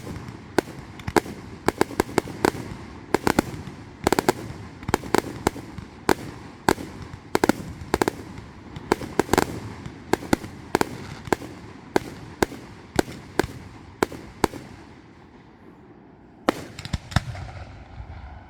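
Fireworks going off in a rapid barrage of sharp bangs and crackles, several a second, thinning out about fifteen seconds in, with a brief cluster of bangs near the end.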